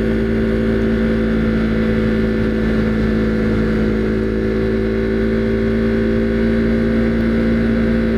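Husqvarna Svartpilen 401's single-cylinder engine running steadily at cruising speed, its pitch holding level throughout.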